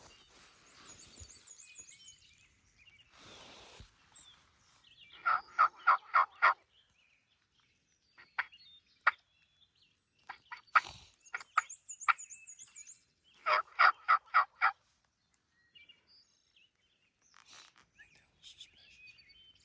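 Turkey yelping: two runs of about six loud, evenly spaced notes, about five and thirteen seconds in, with scattered sharp clicks between them. A high, wavering bird trill comes twice, once near the start and once just before the second run.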